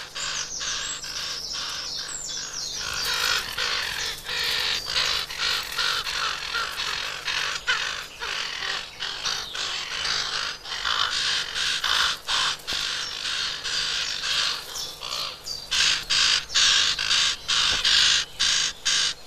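Common raven chicks in the nest begging for food: a continuous chorus of rapid, harsh squawking calls, growing louder about three-quarters of the way through.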